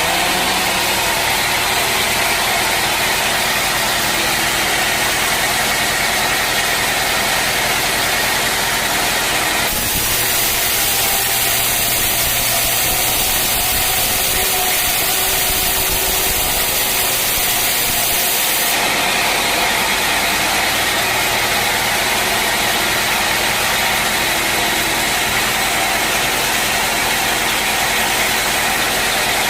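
Sawmill machinery running steadily while sawing teak, a dense, even machine noise. For about nine seconds in the middle a brighter, hissier layer joins it, then drops away.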